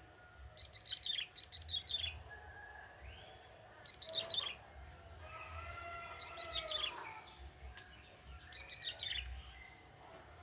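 Young male bar-winged prinia (ciblek tebu) singing: short bursts of quick chirps that fall in pitch, about five phrases with pauses between.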